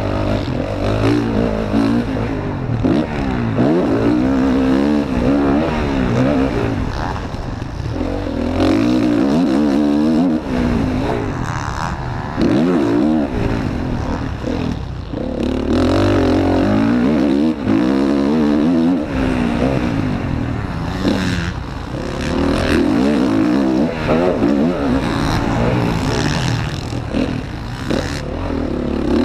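Motocross bike's single-cylinder engine at race pace, heard close up from an onboard camera: the revs climb and drop again and again with throttle changes and gear shifts, with short cut-offs every few seconds.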